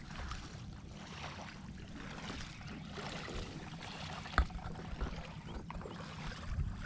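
Water splashing and trickling against a kayak on the lake, steady throughout, with a single sharp knock about four seconds in.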